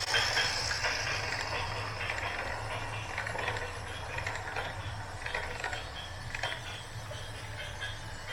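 A radio-controlled backhoe loader's small motors and gears running with a steady low hum and irregular clicking and rattling of its mechanisms.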